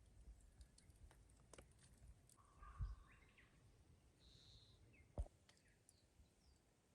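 Near silence outdoors: a few faint bird calls, scattered small clicks, and two soft thumps, one about three seconds in and one about five seconds in.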